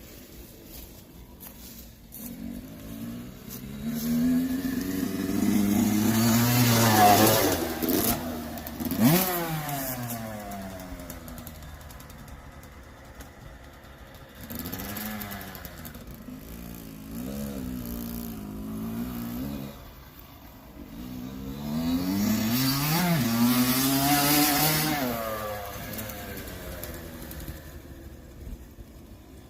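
Kawasaki KX85 two-stroke dirt bike ridden around a track, the engine revving up and down through the gears. It goes past close by twice, loudest about a third of the way in and again near the end, its pitch dropping sharply each time it passes. In between it revs more quietly, farther away.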